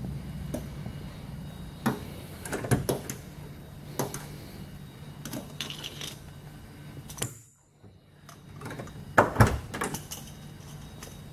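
Several sharp knocks and clunks over a low steady hum, the loudest pair about nine and a half seconds in, with a brief drop-out to near silence about seven and a half seconds in.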